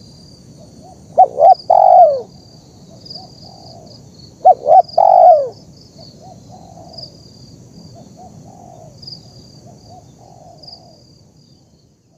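Spotted dove cooing: two loud calls about three seconds apart, each two short notes and a longer falling coo. Softer coos follow, with a thin high chirping underneath, and it all fades out near the end.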